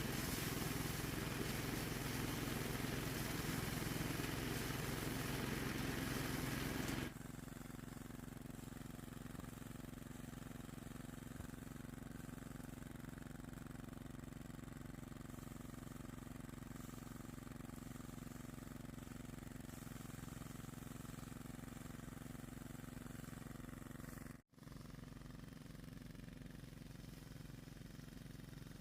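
A steady running engine, loud for about seven seconds, then abruptly quieter but still steady, with a brief cut-out near the end.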